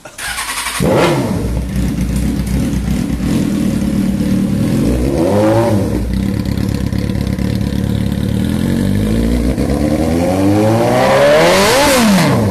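Suzuki GSX-R600 inline-four motorcycle engine with a Two Brothers aftermarket exhaust. It starts up at the beginning and idles, is blipped once briefly, then is revved in a longer climb that peaks near the end and drops back.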